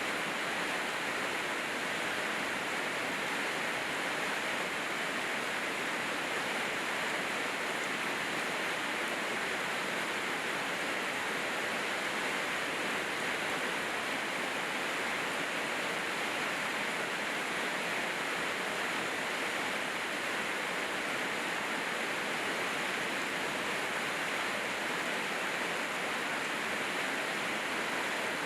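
Rain falling steadily: an even, unbroken hiss with no separate drops, thunder or other events standing out.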